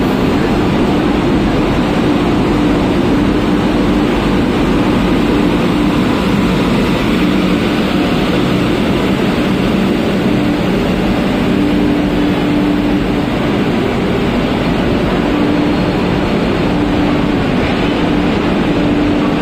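Passenger train rolling slowly past as it comes into the station: an electric locomotive, then its coaches, with a steady rumble of wheels on rail and a low tone that comes and goes.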